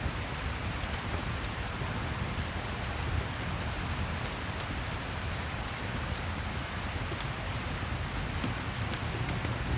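Steady rain mixed with a crackling fireplace, with faint sharp crackles scattered through the even wash of rain.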